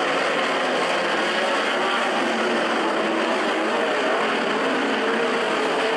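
A field of 360 sprint cars running at racing speed on a dirt oval, their V8 engines blending into one steady engine noise.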